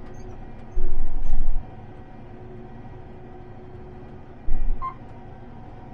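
Combine harvester engine running steadily, heard from inside the cab, with two brief loud low rumbles: one about a second in and a shorter one near the end.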